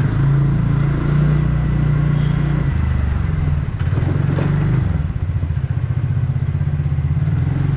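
TVS Ntorq 125 scooter's single-cylinder engine running under way, a steady hum that dips briefly in the middle, with a short clatter about four seconds in.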